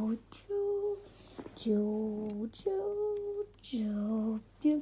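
A voice imitating a two-tone police siren, alternating held high and low notes about an octave apart, each under a second long.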